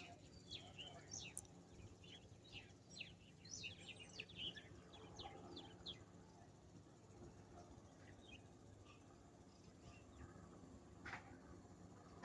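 Faint birds chirping outdoors: a quick run of short, high calls in the first half, thinning out, with one more call near the end.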